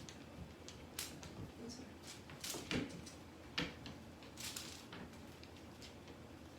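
Irregular light knocks and clicks with some rustling, about five of them, like objects being handled or batted about in a small room.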